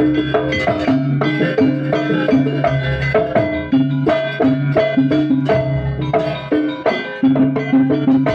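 Javanese jaranan music: drums and tuned gongs and metallophones playing a repeating pattern of struck, ringing notes over a steady low tone.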